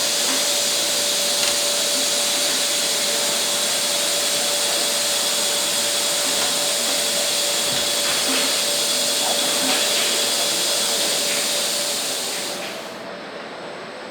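Steady, loud machine hiss with a thin whine running through it, cutting back sharply about twelve and a half seconds in: assembly-line machinery such as a compressed-air blower.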